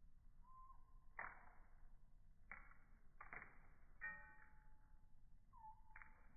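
Faint slowed-down bird calls, pitched low by the slow motion: about five sudden noisy calls and two drawn-out steady whistles.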